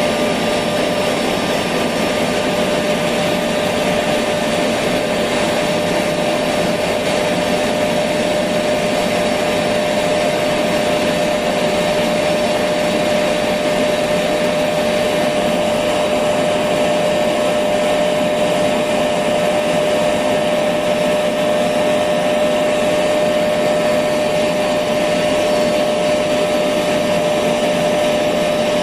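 Electric vacuum cleaner running steadily: an even, unchanging rushing noise with a constant hum-like tone in it, used as white noise to lull a baby to sleep.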